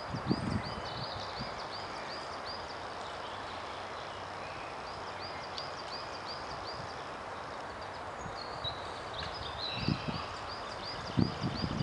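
A small songbird singing runs of a short, high repeated note, about three notes a second, three times over, against a steady outdoor background hiss. A few dull low thumps come at the start and near the end.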